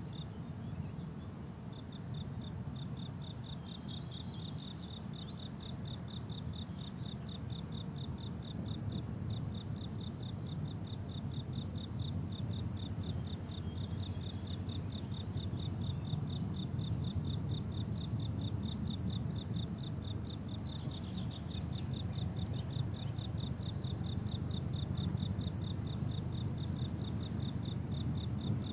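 Several crickets chirping without pause, overlapping strings of rapid high-pitched pulses, over a faint low rumble.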